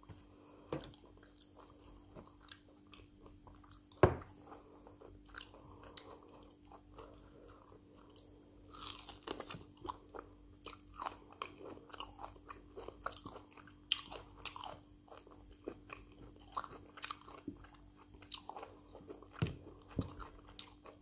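Close-up eating by hand: chewing, biting and wet mouth sounds on rice and stew with fried meat, with many small clicks throughout and one sharp knock about four seconds in, over a faint steady hum.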